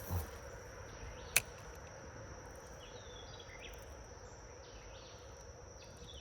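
Steady high-pitched insect drone with a few short chirps, broken by a sharp click about a second and a half in.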